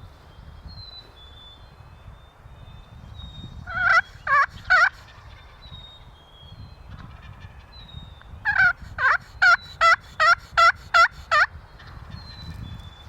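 Turkey yelps made on a slate friction call: a short run of three notes, then a longer run of about nine evenly spaced yelps. Faint songbird chirps are heard between them.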